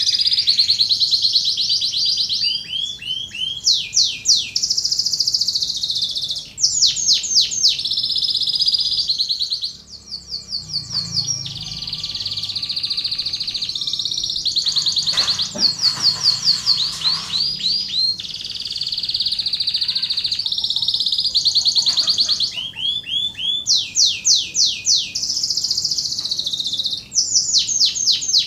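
Domestic canary singing a long, continuous song of rapid trills and rolls, with repeated runs of fast sweeping notes. This is contest-style canary song of the kind played as a master recording to teach and stir other canaries to sing.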